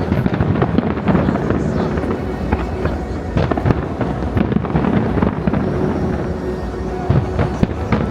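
Fireworks bursting in quick, overlapping succession, many sharp bangs and crackles, with music playing underneath.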